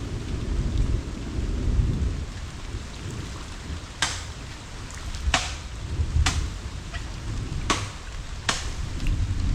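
Rain with a steady low rumble, and from about four seconds in five sharp snaps spaced roughly a second apart.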